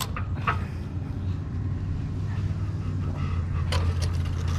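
Steady low rumble of passing road traffic, swelling slightly near the end, with a few short sharp clicks and knocks over it.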